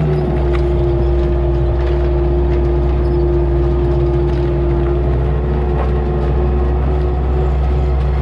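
Case IH Steiger 9370 tractor's diesel engine running steadily under load while pulling a field cultivator, holding an even pitch.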